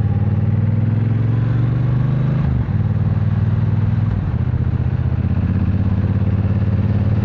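Triumph Bonneville Bobber's 1200 cc parallel-twin engine pulling under acceleration on the move: its pitch rises, drops sharply at a gear change about two and a half seconds in, climbs again, steps down at a second shift about four seconds in, then holds steady.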